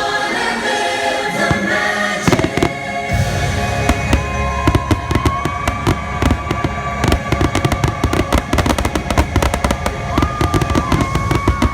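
Fireworks finale: a rapid barrage of bangs and crackles, many a second, starting about two seconds in and growing thicker, over a low rumble. Orchestral and choir show music plays underneath.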